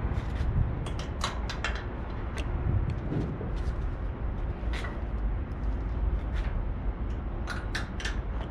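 Flatbed tarp being worked down and fastened by hand: scattered clicks and clanks of its D-rings and fastening hardware over a steady low rumble.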